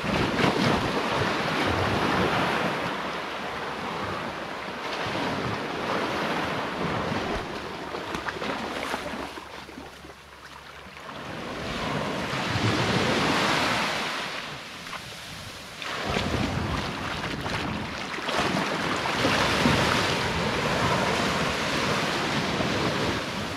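Sea waves washing onto the shore, surging and fading over several seconds, with wind buffeting the microphone.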